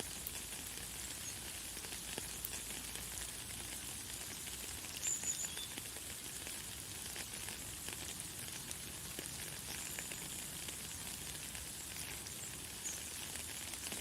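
Light, fine rain falling steadily as an even hiss with a fine patter. A few short, high bird chirps sound over it, the loudest about five seconds in.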